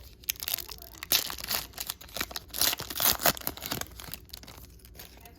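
Crinkly foil wrapper of a football card pack being torn open and handled, in a rapid run of sharp crackles that thins out near the end.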